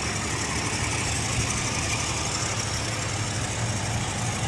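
Car engine running steadily with an even low hum.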